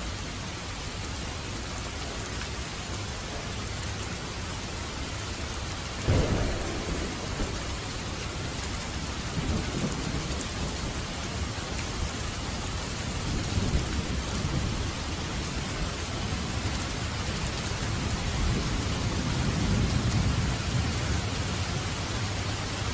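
Steady heavy rain hiss. About six seconds in, a sudden thunderclap cracks and then rumbles away, and low rolling thunder rumbles come back several times later on.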